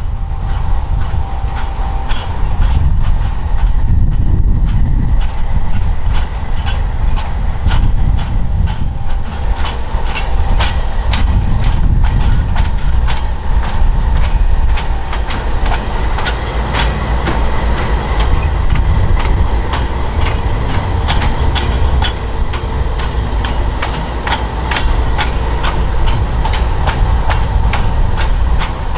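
CN freight train of boxcars passing close by: a steady low rumble with wheels clicking over rail joints in a quick, uneven series.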